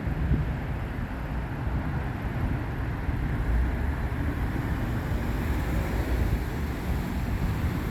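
Steady rumble of freeway traffic, with no single vehicle standing out.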